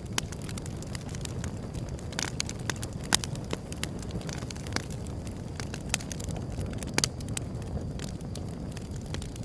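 Wood fire burning with a steady low rumble, crackling and popping irregularly; the sharpest pops come about three seconds in and again about seven seconds in.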